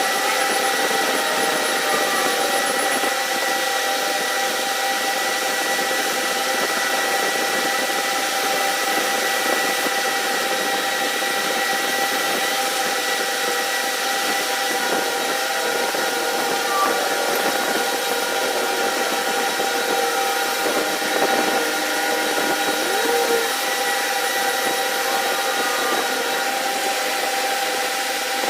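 A machine running steadily, with a constant whine made of several steady tones over a hiss.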